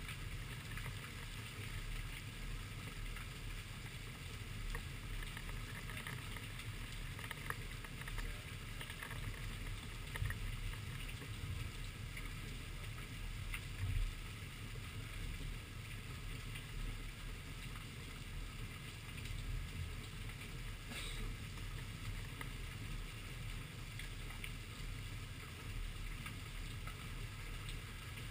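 Heavy rain falling steadily as a low, even rush, with a few sharper taps of drops landing close to the microphone.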